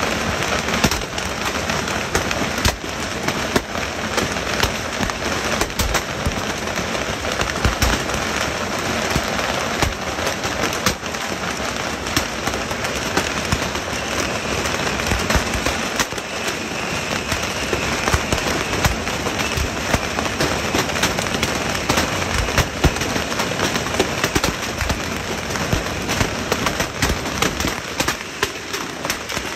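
Fireworks going off without a break: a dense, continuous crackle of many small bangs and pops.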